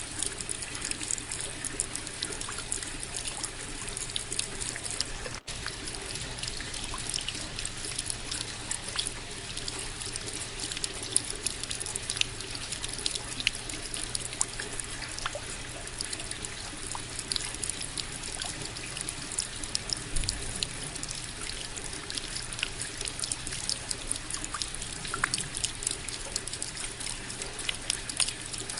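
Steady rain with many close drops pattering and ticking, and water trickling and dripping.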